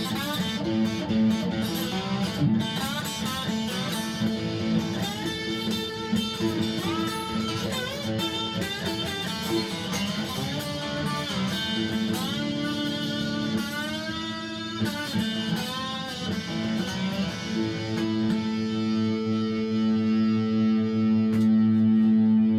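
Three-string electric guitar with an aluminium composite top played through overdrive: single-note lines with string bends, then notes held ringing and sustaining for the last few seconds.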